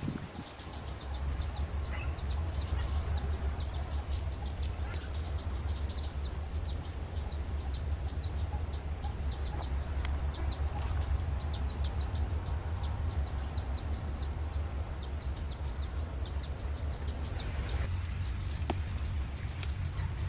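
A bird calls in a long run of short, high chirps repeated several times a second, over a steady low rumble. Near the end the chirping stops and scattered crackling rustles are heard.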